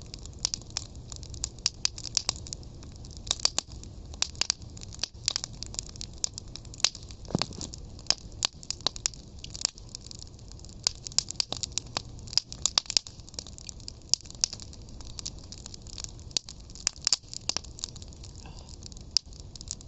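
Wood fire crackling and popping, with many irregular sharp snaps over a low steady rumble of the flames.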